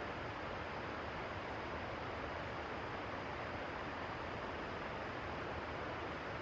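Steady rushing of river water, an even hiss with no breaks or distinct events.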